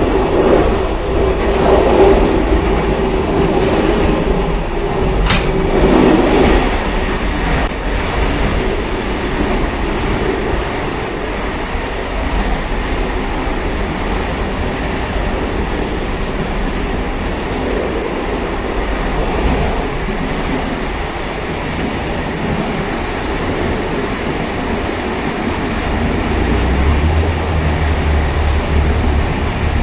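Railcar travelling along the track: a continuous rumble and rattle of wheels on rail. There is a brief sharp click about five seconds in, and a deeper low hum comes in near the end.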